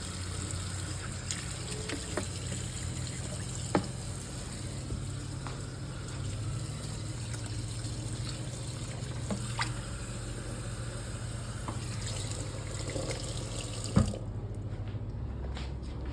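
Kitchen sink tap running steadily, with a few light clinks, then shut off with a knock about fourteen seconds in.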